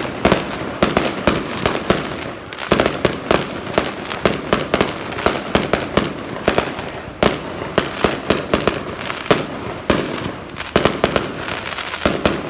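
Fireworks going off in a rapid, continuous string of sharp bangs and cracks, several a second.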